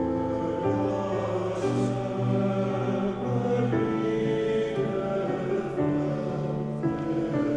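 Choir singing a slow hymn, notes held about a second each, with a couple of soft consonant hisses.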